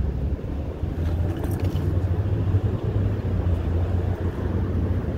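Intermodal freight train rolling by: a steady low rumble of wheels on rail.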